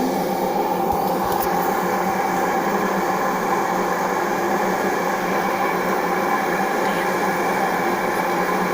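LG WD-80155NUP front-loading washing machine running a synthetics wash with a steady hum.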